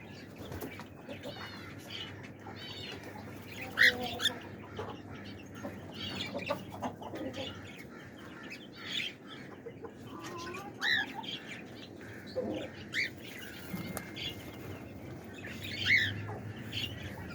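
Pet parrots chirping and squawking: a steady stream of short calls, with louder squawks about four seconds in and near the end.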